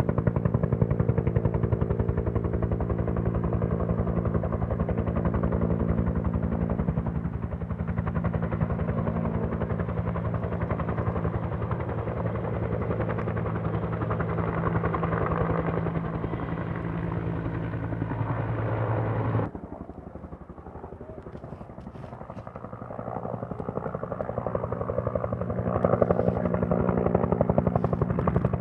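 Helicopter rotor beating, a fast steady chop with a low drone. It drops away suddenly about two-thirds of the way through, then builds back up and is loud again near the end.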